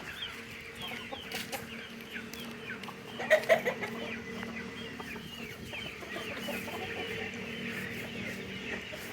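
A brood of desi Aseel chicks peeping without a break, many short falling cheeps overlapping. A few louder, lower calls stand out about three and a half seconds in.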